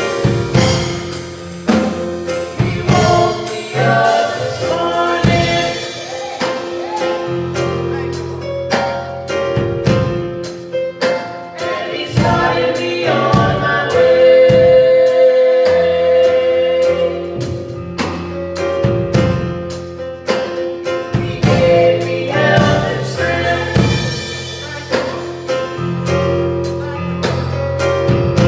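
Gospel music: voices singing together over a drum kit and instruments, with a steady drum beat.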